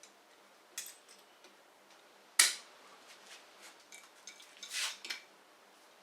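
Metal hand tools clinking and knocking against a motorcycle engine as a flywheel puller and clamping tool are handled and fitted to the magneto rotor. Scattered light clicks, with the sharpest metallic knock about two and a half seconds in and a few more near the end.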